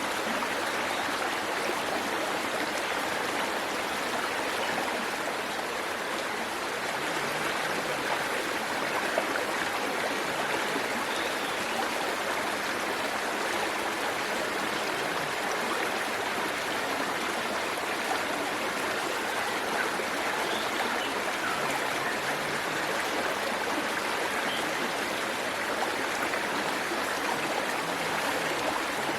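Waterfall water rushing and splashing in a steady, even hiss with no let-up.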